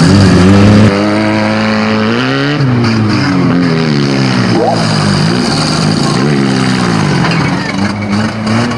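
Banger racing car engines revving, their pitch rising and falling several times as the cars strain against each other. The sound is loudest in the first second.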